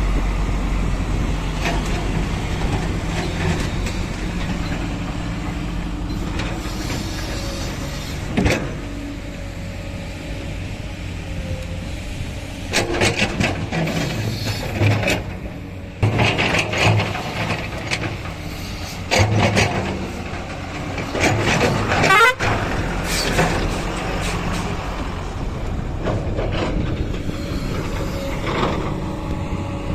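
Diesel engines of heavy earthmoving machinery running steadily, with several short louder bursts of machine noise in the middle stretch, one carrying a rising whine.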